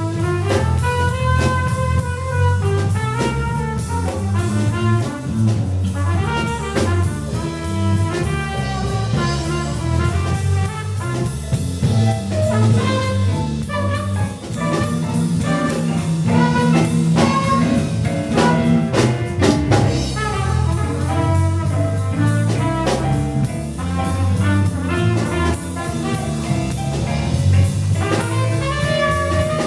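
Live jazz band playing an instrumental, with a brass horn carrying the melody over a bass line and drum kit.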